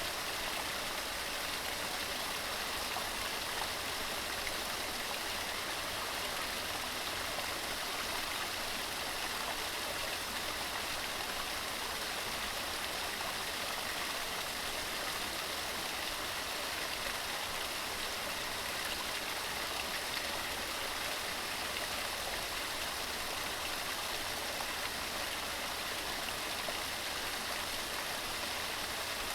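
Waterfall tumbling over rocks: a steady, even rush of falling water.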